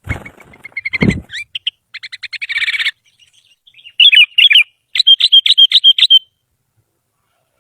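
Sooty-headed bulbul singing: a fast chattering run of notes, then clusters of whistled notes, then a quick series of about eight sharp notes. Two low thumps sound in the first second.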